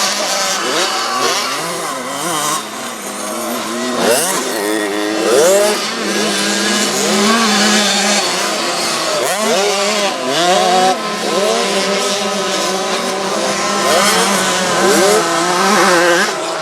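Several small two-stroke 65cc motocross bikes racing, their engines revving up and dropping back again and again, with overlapping notes from more than one bike.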